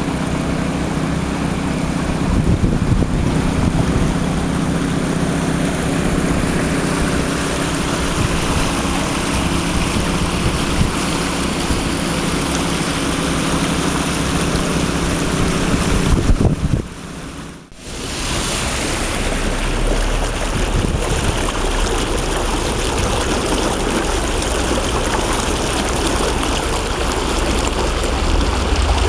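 Floodwater rushing, a steady dense rush of water. It breaks off briefly about seventeen seconds in, then resumes with more low rumble.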